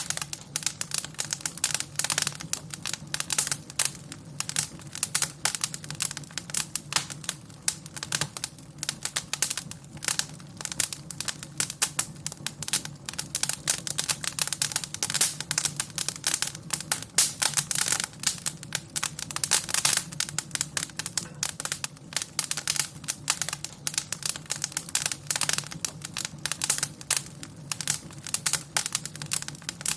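Wood fire in a fireplace crackling, with dense irregular snaps and pops over a steady low hum.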